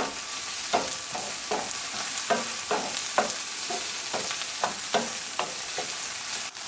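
Green onions, garlic and ginger sizzling in hot oil in a stainless steel skillet, stirred with a wooden spoon that scrapes across the pan about twice a second.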